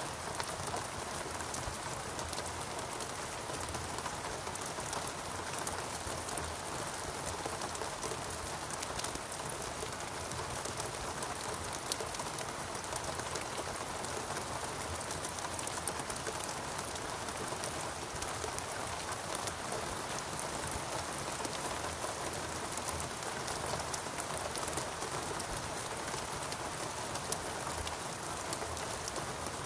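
Steady rain falling in a rainforest, a dense even patter of drops on leaves and surfaces.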